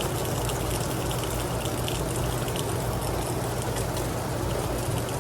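Heavy rain falling steadily: a dense, even hiss with scattered sharp drop ticks, over a steady low hum.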